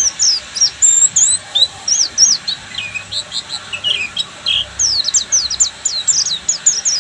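White-eye (pleci buxtoni) singing a rapid twittering song of many short, high, down-sweeping chirps, with a few lower warbled notes in the middle before the fast chirping picks up again.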